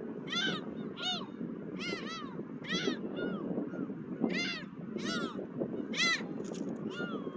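A flock of seagulls calling again and again, short calls that drop in pitch, one or two every second, over a steady wind noise.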